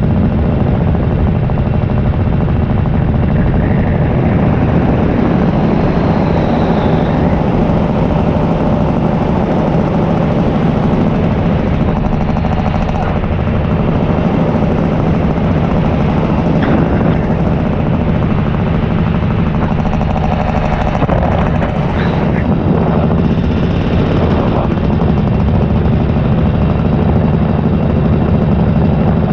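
Paramotor engine and propeller running steadily in flight, a loud, even low drone that keeps the same pitch throughout.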